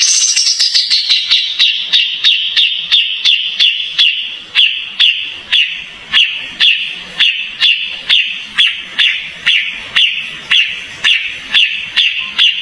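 Kapas tembak bird calling in a long, even series of sharp, ringing notes, about two to three a second, each dropping quickly in pitch. The sound starts abruptly, as a recording cut in.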